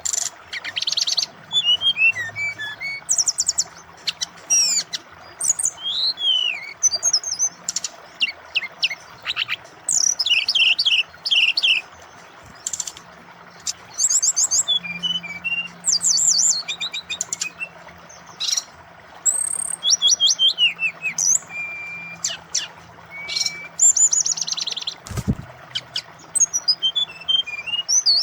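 Brown-chested jungle flycatcher (sikatan rimba dada coklat) singing in bursts of rapid trills, chirps and short whistles, over a steady hiss of flowing water. A single low thump about 25 seconds in.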